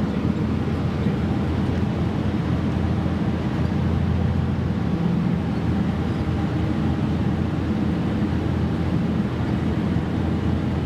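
A boat's engine running steadily, giving a low, even drone with a hum.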